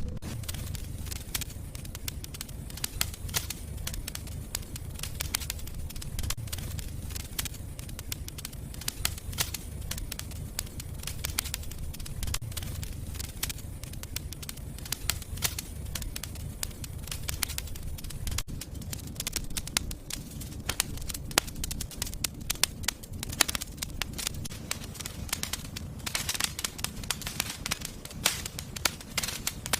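Fire burning in a fireplace, crackling and popping steadily with many sharp snaps over a low rumble, with a busier flurry of pops about 26 seconds in.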